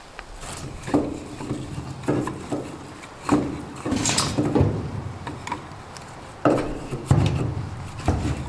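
Irregular wooden knocks and clatter of split firewood being handled, pieces of wood striking one another.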